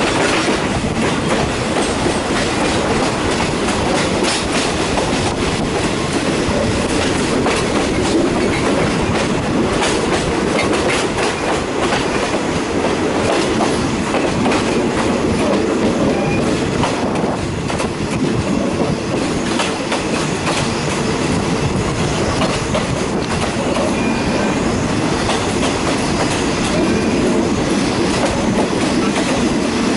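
Thai passenger train running along the track, heard from a carriage window: a steady rumble of wheels on rail with a clickety-clack of rail joints.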